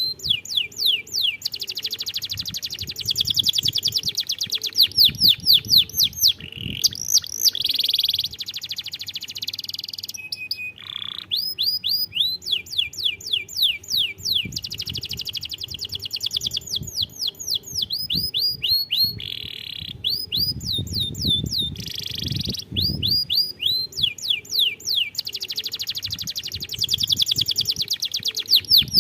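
Domestic canary singing a long, fast song of rapidly repeated, downward-sweeping notes and rolling trills, with a couple of short breaks.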